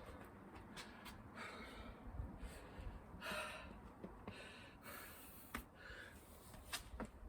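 A man breathing hard and gasping, out of breath from strenuous exercise, with a hard breath about every second.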